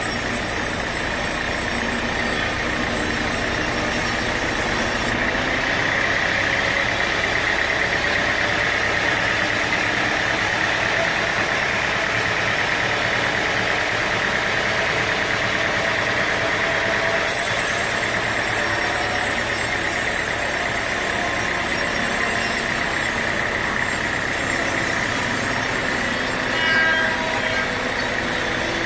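Sawmill machinery running steadily, an engine-driven mill with a continuous mechanical din and a steady whine. There is a brief louder knock near the end.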